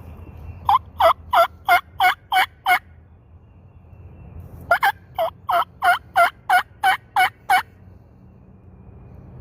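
Mouth diaphragm turkey call yelping like a hen, to keep a gobbler coming in. It gives a run of about seven loud, evenly spaced yelps, a pause of about two seconds, then a second run of about ten, each yelp dipping in pitch.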